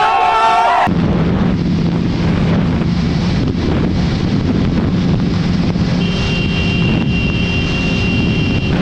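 Motorcycle cruising at a steady speed, its engine holding an even note under heavy wind buffeting on the helmet microphone. In the first second a horn-like pitched sound cuts off abruptly, and near the end a thin high tone is held for nearly three seconds.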